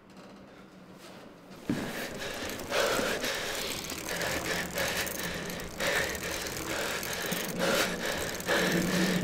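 A man panting hard while riding a bicycle, heavy breaths about once a second over a steady low hum. The sound comes in suddenly about two seconds in.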